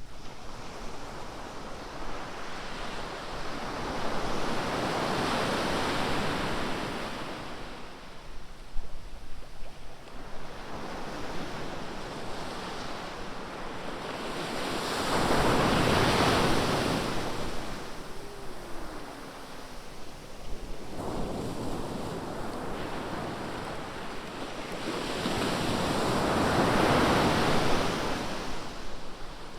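Ocean surf: waves breaking on the beach in three slow swells of noise, about ten to eleven seconds apart, over a steady low rumble.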